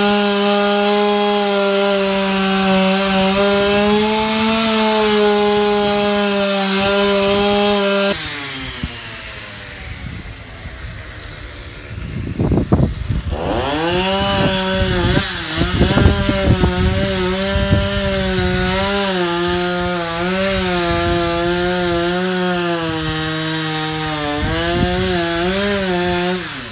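Chainsaw running at full throttle while cutting into the tree. About eight seconds in it falls back to a low idle. A few seconds later it revs up again and keeps cutting, its pitch dipping and wavering under load, then drops off at the end.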